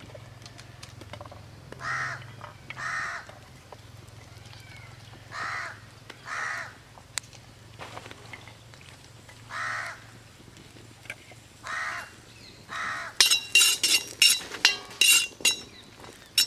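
Crows cawing, short calls mostly in pairs, about eight in all. Near the end come a quick run of loud, sharp metallic clinks with a ringing tone.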